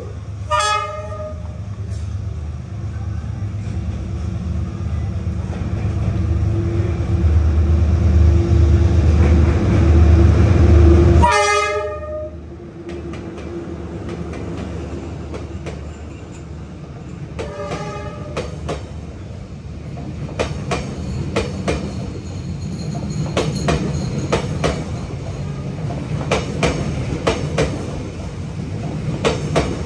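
D19E diesel-electric locomotive passing close by, sounding its horn three times, with its engine loudest as it goes past. It is followed by the carriages clattering rhythmically over the rail joints.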